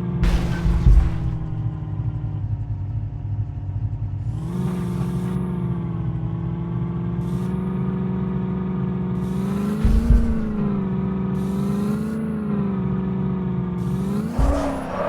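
A motor running steadily with a constant drone whose pitch rises and falls slightly a few times, as under changing load, with a few short knocks about 10 seconds in and near the end.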